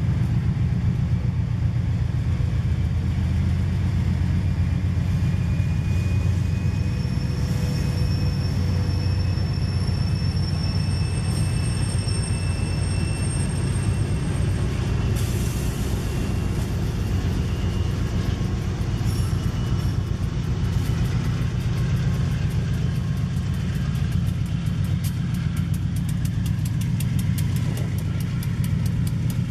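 Diesel-electric freight locomotives, CSX GE units and a New England Central SD40-2, passing close with a deep, steady engine rumble. Faint high squeals rise over it about a third of the way through, and rapid clicking builds near the end.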